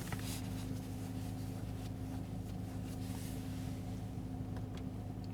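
Steady low hum of the Mercedes-AMG E53's engine idling, heard from inside the cabin, with a few faint clicks.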